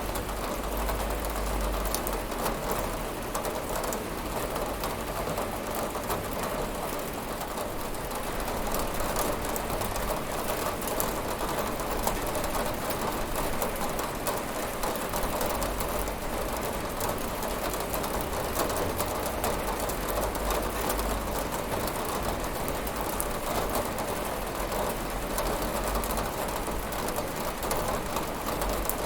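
Steady rain falling and pattering on a window, with many small drop ticks and a low rumble underneath.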